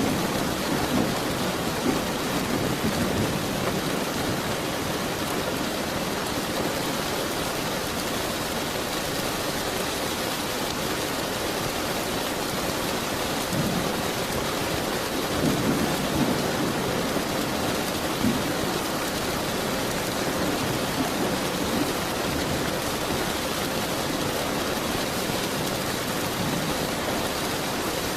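Steady heavy rain hissing, with low rolls of thunder rumbling near the start, again in the middle and near the end.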